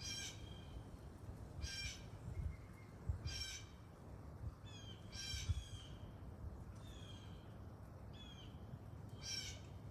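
Blue jays calling: about five loud harsh calls a second or two apart, with shorter falling calls in between, over a low steady rumble.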